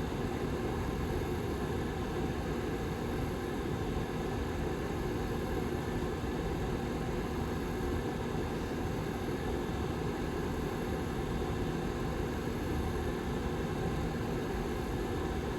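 Back fan of a Lasko 755320 tower heater running steadily: an even rush of air with a faint, constant hum in it.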